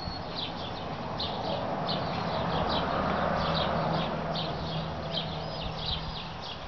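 Small birds chirping, short high notes repeated over and over. Under them a low steady hum with a wider rush swells in the middle and fades again.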